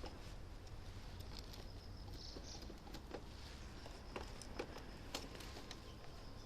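Rain tapping on a car in scattered drops over a steady low rumble of the car on the road, heard from inside the cabin.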